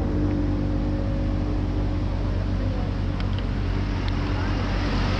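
BMW GS Adventure motorcycle engine running steadily at low road speed, with a steady hum under a rush of wind and road noise.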